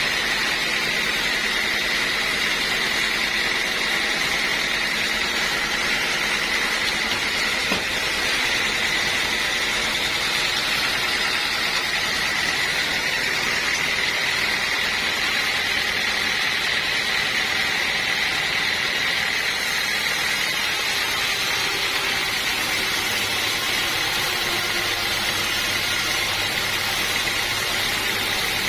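Sawmill machinery running steadily, with a constant mechanical drone and an even high whine; a low hum strengthens near the end.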